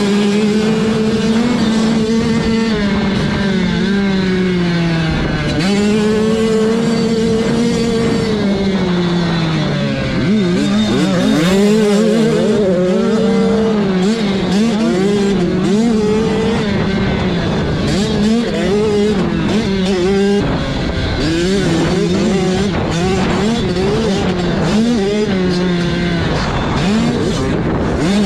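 Dirt bike engine being ridden hard, its pitch climbing and dropping again and again as the throttle is opened and rolled off.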